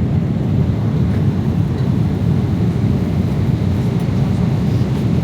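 Steady, low cabin noise of a Boeing 777-300ER in cruise flight: an even drone of engines and airflow.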